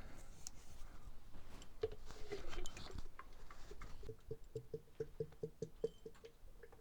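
Motor oil glugging out of a quart bottle into a funnel in the engine's oil fill, a quick even run of about five glugs a second over the last couple of seconds, with a few light clicks and knocks before it.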